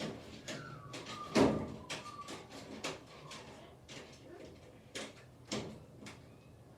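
A run of irregular knocks and taps, the loudest a heavy thump about a second and a half in, with a thin whistle-like call falling slightly in pitch over the first two seconds.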